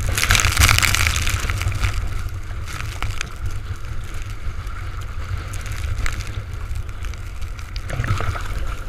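Storm wind buffeting the microphone in a steady heavy rumble, over hissing, splashing water. A louder rush of spray comes in the first second and a half, with scattered sharp ticks after.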